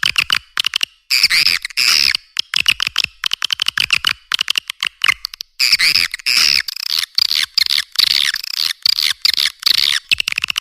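Swiftlet lure call recording: dense, rapid chattering chirps and clicking trills of swiftlets, several calls layered into one continuous stream, with short breaks about a second in and about halfway through. It is the kind of call track swiftlet farmers play to draw swiftlets into a nesting house.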